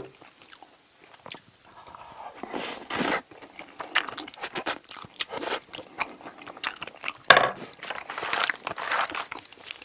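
Close-miked chewing and wet mouth sounds of someone eating octopus fried rice, with small clicks throughout and a sharp knock about seven seconds in.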